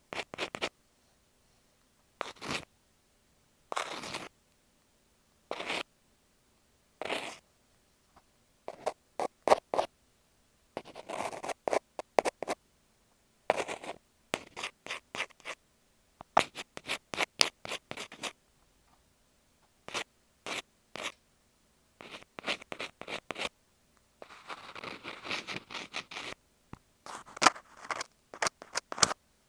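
An ear pick scratching and scraping on an earphone microphone, close up, in short strokes and quick flurries with brief pauses between.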